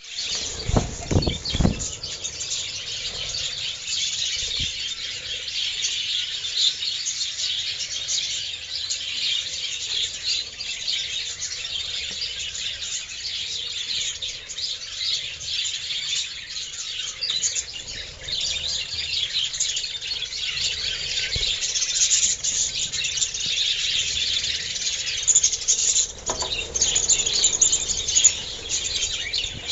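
A flock of budgerigars chattering and squawking continuously in an aviary, with a few low knocks in the first two seconds.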